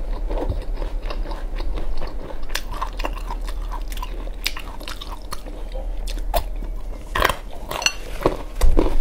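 Close-miked biting and chewing of a whole single-clove garlic bulb: a string of sharp crunches as it is bitten and chewed, the loudest about seven and eight and a half seconds in.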